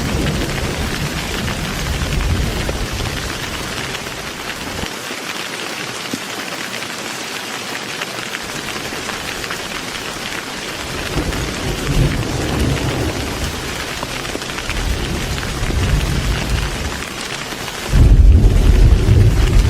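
Heavy rain falling steadily with thunder rolling in the distance several times. About three-quarters of the way through comes a sudden, much louder crack and rumble of thunder.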